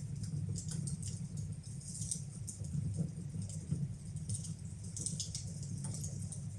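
Wood fire burning in a fireplace, crackling with irregular snaps and pops over a steady low rumble.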